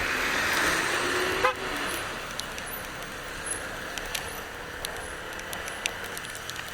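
Road and traffic noise heard while riding. A louder swell of noise, like a passing vehicle, fills the first second and a half and ends in a sharp click. After that comes steady road noise with scattered light ticks.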